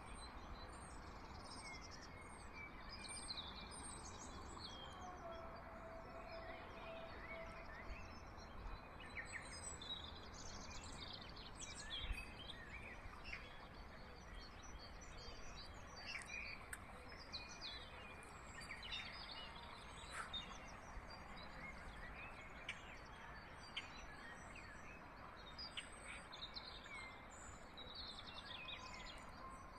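Several wild birds chirping and singing in short, frequent phrases over a steady low outdoor background noise, with a single sharp click about twelve seconds in.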